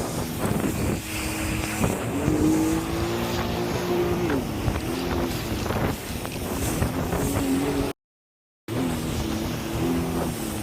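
Jet ski engine running under way, its pitch rising with the throttle and then easing off, with wind and water noise over it. The audio cuts out for under a second near the end.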